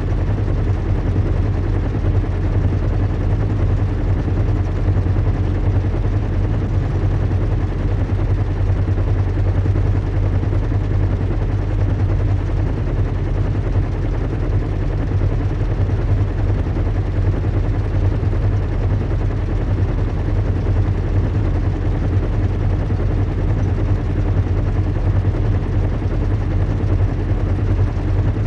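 Recreated ambience of a large airship in flight: a steady low engine drone and rumble with a hiss of rushing air over it, unchanging throughout.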